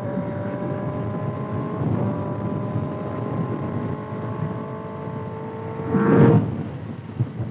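Kawasaki ZX-6R's inline-four running through a loud exhaust while riding, holding a steady note that sags slightly, with wind noise on the microphone. About six seconds in there is a brief, louder surge.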